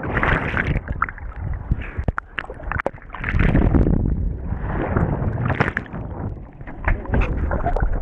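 Ocean surf washing and sloshing close to the microphone, with a louder surge of rushing water about three seconds in and scattered sharp splashes.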